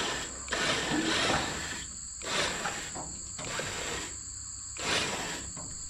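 Irregular bursts of mechanical ratcheting and clatter as an antique tractor is winched up onto a trailer, the bursts thinning out towards the end. Crickets chirp steadily behind.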